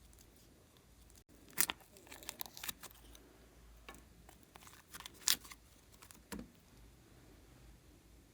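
Hands working glossy slime, giving scattered sticky pops and crackles, with the two sharpest pops about a second and a half in and just past five seconds in.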